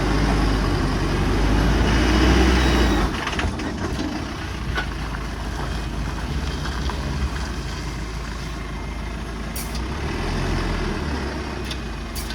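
Heavily loaded BharatBenz truck's diesel engine running as it manoeuvres, pulling harder for the first three seconds and then settling to a steady rumble, with a few short clicks near the end.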